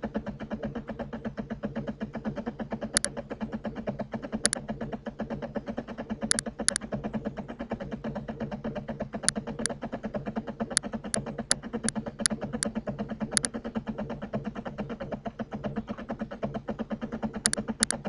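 Computer mouse clicking, singly and in pairs, with a quick run of about eight clicks around the middle. Under the clicks is a steady buzzing hum.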